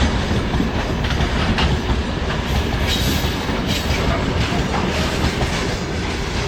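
Freight train wagons rolling past, wheels clacking over the rail joints with a steady rumble.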